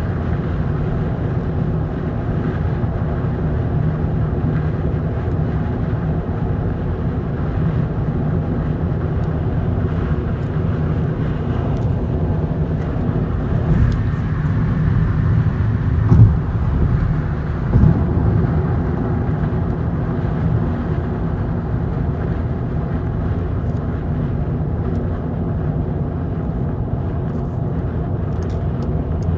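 Steady wind and road noise inside a moving GTI's cabin, with a few short louder bumps around the middle. This is the wind noise that the owner is trying to reproduce to show the shop as a fault.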